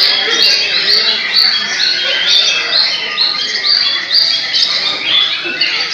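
Several caged white-rumped shamas (murai batu) singing at once in a contest. The result is a dense, continuous chorus of overlapping, quickly repeated high phrases and glides.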